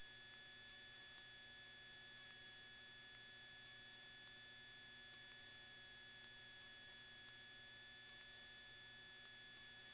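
Electrical interference in an aircraft intercom feed: a high whine that drops sharply with a click and then climbs back up, repeating about every second and a half, over a faint steady hum.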